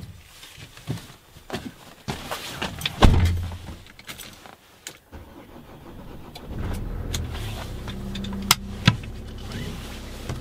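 Knocks and clicks of handling inside a car, the loudest about three seconds in, then the car's engine starts about six seconds in and idles with a steady low hum, with two sharp clicks near the end.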